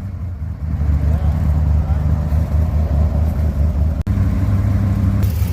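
1984 Dodge D250's 360 V8 idling low and unevenly just after a cold start in sub-freezing weather; the engine is still cold and not yet settled. The engine gets a little louder about a second in.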